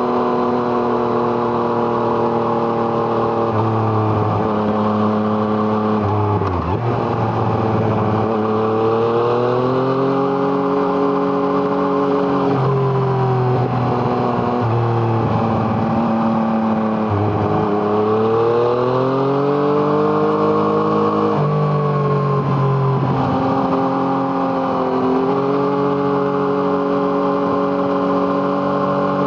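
Yamaha MT-09's three-cylinder engine breathing through an Arrow Thunder exhaust, heard from on the bike. The revs rise, drop sharply at a gear change and climb again several times, with steadier stretches of part throttle in between.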